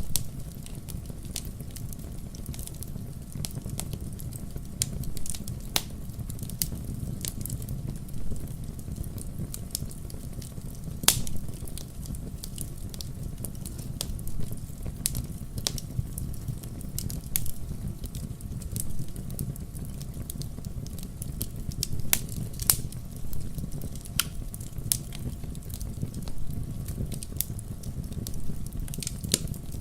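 Wood fire burning in a fireplace: a steady low rumble of flames with irregular sharp crackles and pops all through, the loudest pop about eleven seconds in and a cluster of louder ones a little past the middle.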